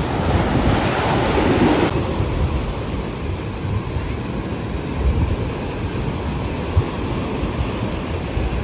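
Surf washing on the beach with wind buffeting the microphone. About two seconds in the hissing wash cuts off abruptly, leaving mostly low wind rumble.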